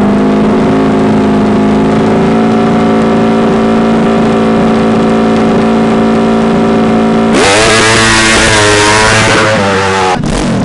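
Hill-climb motorcycle engine held at high revs at full throttle. About seven seconds in, a loud rushing noise joins it and the revs waver up and down. It drops off sharply near the end.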